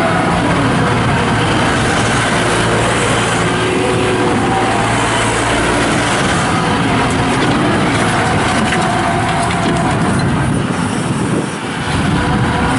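New Holland LS180 skid steer loader's diesel engine running at working speed, its pitch rising and falling as the machine is worked, with a brief drop in level a little before the end.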